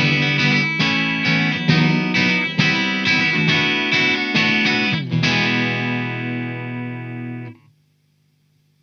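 Soloking MS-11 Classic Mk II electric guitar strumming rhythmic chords through an amp, then letting one chord ring for a couple of seconds before it is muted abruptly, leaving a faint low hum.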